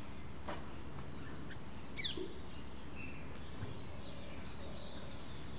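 Faint outdoor ambience: a steady low background hum with a few short bird chirps, the clearest a quick falling call about two seconds in.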